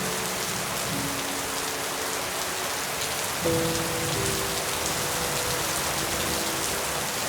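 Steady rain falling on leaves, a dense even patter with fine individual drops on top. Soft held musical notes sound under it, changing chord about a second in and again about three and a half seconds in.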